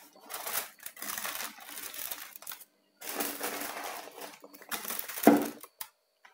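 Plastic food packaging crinkling and rustling as it is handled, in two long stretches with a short pause between, and a louder crackle near the end.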